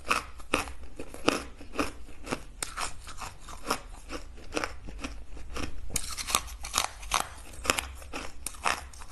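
Ice being bitten and chewed: a steady run of sharp crunches, about two to three a second.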